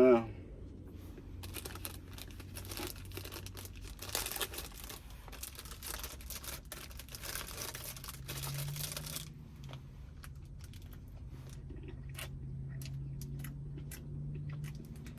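Low steady drone of a truck engine, with a somewhat higher hum joining about halfway through, under scattered crackling and rustling noises.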